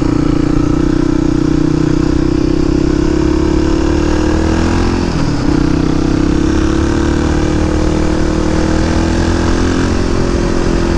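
Suzuki DR250S single-cylinder four-stroke engine running under way through a Dominator R aftermarket exhaust, running well. The note drops briefly and picks up again about five seconds in.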